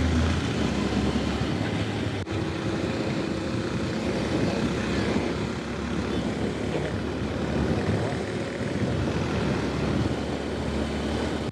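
A 150cc motorcycle engine running steadily under way, mixed with dense wind rush on the rider's camera microphone. There is one sharp click about two seconds in.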